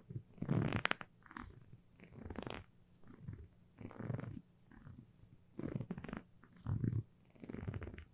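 Sticky surfaces being pressed together and pulled apart for ASMR: short crackly peeling bursts, about once a second, with gaps between.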